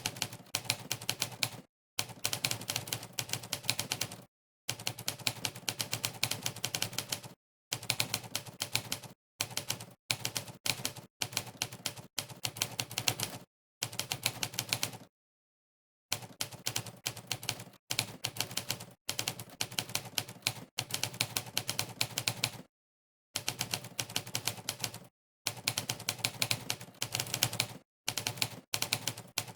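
Monkeytype's typewriter keypress sound effect: a sampled typewriter key clack played on every keystroke, clicking rapidly in short runs separated by brief dead-silent gaps.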